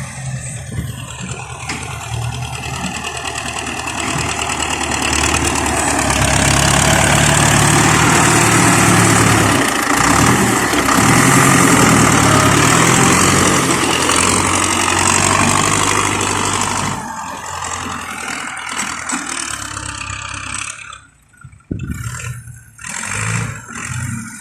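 Heavy diesel machinery engine running, building up louder through the middle and then dropping back down about two-thirds of the way in.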